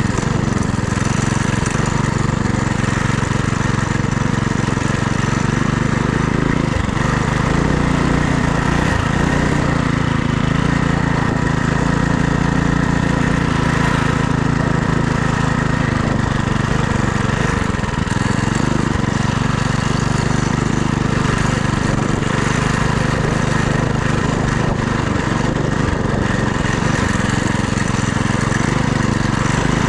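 FRP GMB100 minibike's small engine running steadily while riding, its pitch dipping briefly a few times as the throttle eases off, with a steady rushing hiss of wind over it.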